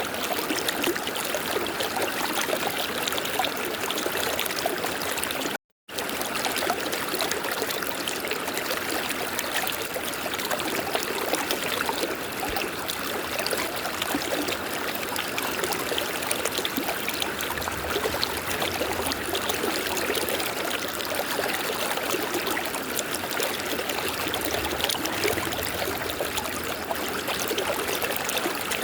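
River water flowing in a steady rush with trickling, unbroken apart from a brief dropout to silence about six seconds in.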